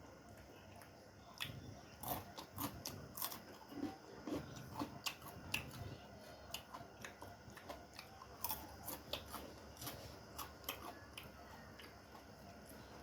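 Close-up eating sounds: irregular crisp bites and chewing, several sharp crunches and mouth clicks a second, easing off near the end.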